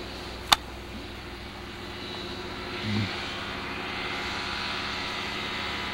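Kitfox light airplane's engine and propeller droning steadily in flight, growing a little louder after about two seconds. A sharp click about half a second in.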